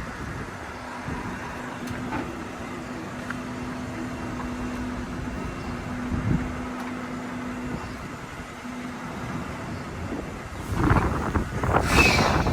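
Semi truck's diesel engine running steadily while the rig is maneuvered slowly, with a louder noisy rush near the end.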